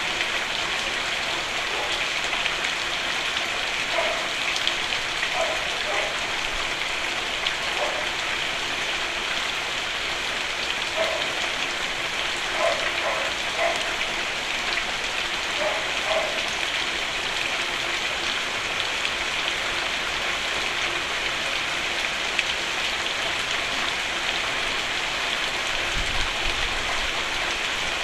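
Steady rain falling on a roof, a dense even patter with scattered louder drops through the first half. A brief low thump comes near the end.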